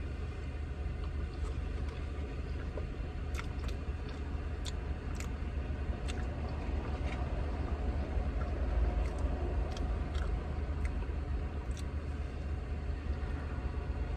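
Steady low rumble of a car cabin, the engine running while parked, with a few faint scattered clicks over it.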